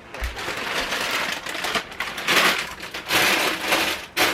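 Rustling and crinkling of food packages being handled and moved around, with a low thump shortly after the start.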